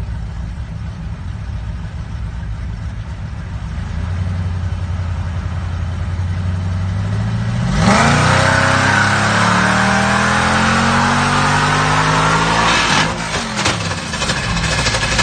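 Car engine running at a low rumble, then revved hard about eight seconds in, its pitch climbing steadily for some five seconds under a loud hiss before it drops back near the end: a car being held at high revs for a burnout.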